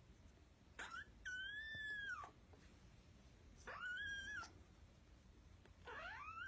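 Very young kitten mewing: three high-pitched mews a couple of seconds apart, the first the longest at about a second.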